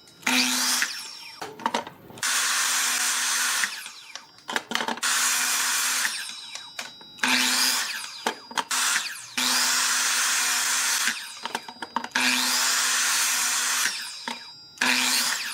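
A handheld electric power tool switched on and off in short runs about seven times, the motor whining up to speed at each start and dropping away in the gaps.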